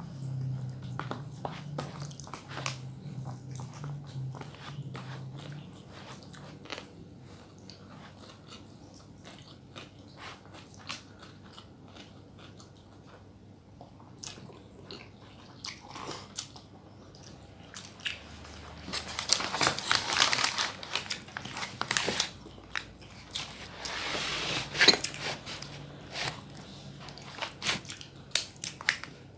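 Close-miked eating: wet chewing and mouth clicks with bites, rising to two louder crunchy stretches about two-thirds of the way through.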